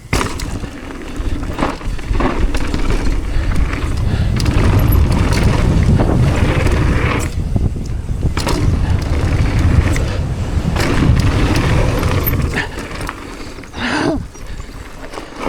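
Mountain bike riding fast down a dirt trail, heard from an action camera on the rider: wind buffeting the microphone over tyre rumble, with repeated sharp clacks as the bike rattles over bumps. The low rumble eases off about twelve seconds in.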